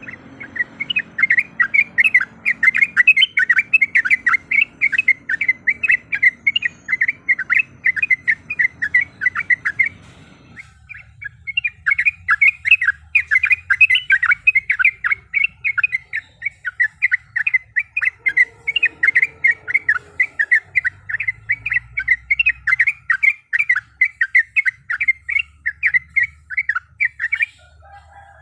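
Yellow-vented bulbul (trucuk) singing a long, rapid rolling series of sharp notes, about three to four a second. The series breaks briefly about ten seconds in, then runs on until near the end.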